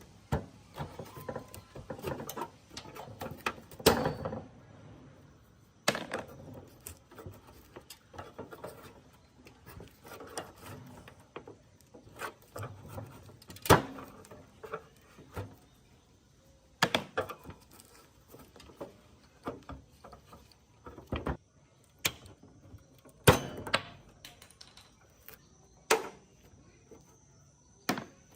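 Hand work on the metal parts of an old gas water heater: irregular clicks, rattles and handling noises, with a dozen or so sharper knocks and clanks. A faint steady high whine comes in about four seconds in.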